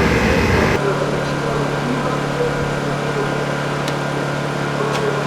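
Race car engine running at steady revs, one unchanging pitch, after an abrupt change in the sound about a second in.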